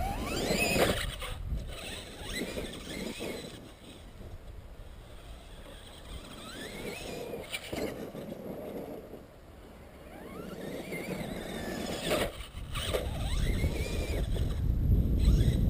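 Electric motors and gearboxes of Traxxas E-Maxx RC monster trucks whining, rising and falling in pitch as they speed up and slow down, with a few sharp knocks along the way. A low rumble builds near the end.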